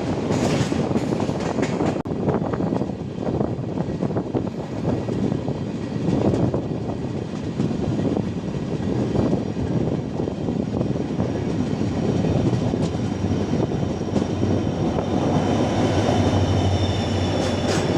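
Passenger express train running on the rails: a steady rumble with irregular knocks of the wheels over the track. Faint high tones and a stronger low hum come in near the end.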